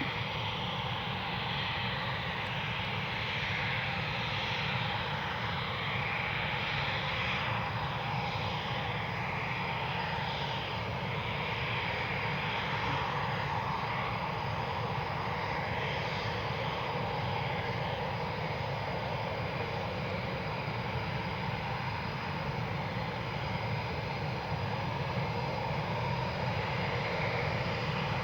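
Eurofighter Typhoon jets' twin turbofan engines running at taxi power: a steady jet rush and whine whose tone slowly shifts and swirls as the aircraft move.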